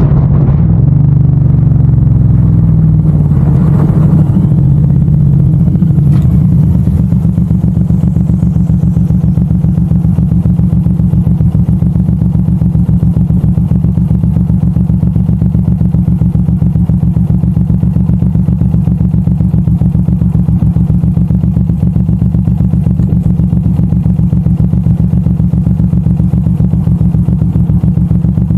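Suzuki M109R cruiser's big V-twin engine easing off over the first several seconds, then idling with a steady, even pulse for the rest.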